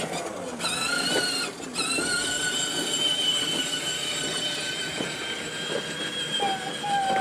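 Battery-powered ride-on toy train running: its electric motor gives a steady high whine that cuts out briefly twice in the first two seconds, then runs on, with light clicks and rattles from the wheels.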